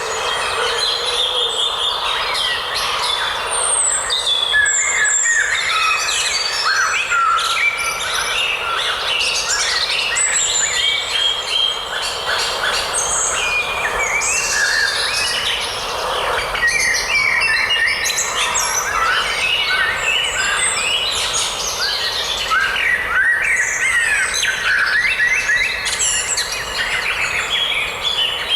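Many small birds singing and chirping at once in a dense, unbroken forest chorus of short, quick, high notes and whistles.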